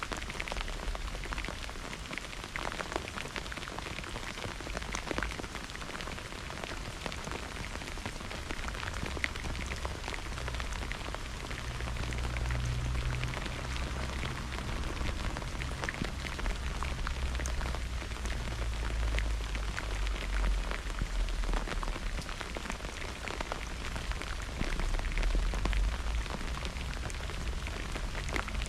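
Steady heavy rain falling on surfaces, with many individual drops ticking close by. A low rumble of distant thunder swells up in the second half and rolls on for much of the rest.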